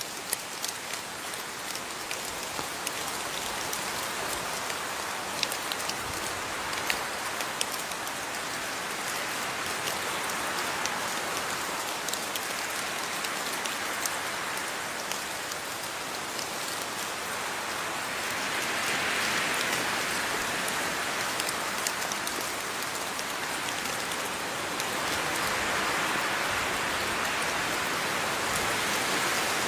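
Steady rain falling, a dense hiss full of individual drop clicks, swelling a little heavier twice in the second half.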